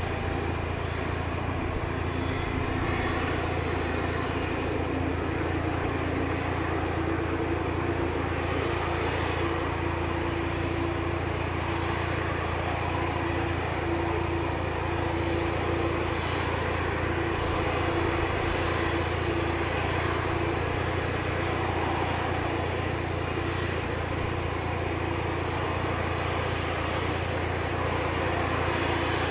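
Boeing 737-500's CFM56 jet engines running steadily at low power, an even rushing noise over a low hum with faint steady tones.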